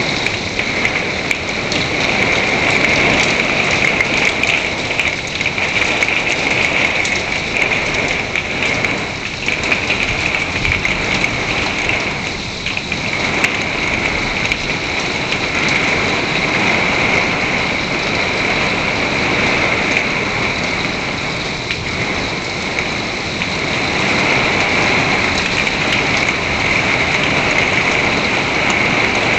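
Heavy rain and hail pelting down in a hailstorm, a dense, steady, loud hiss of many drops and hailstones striking surfaces.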